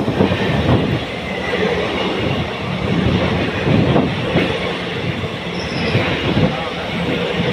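The 16308 Kannur–Alleppey Executive Express passenger train running through the station close by. Its coaches give a loud, continuous rumble, with repeated knocks from the wheels on the rails.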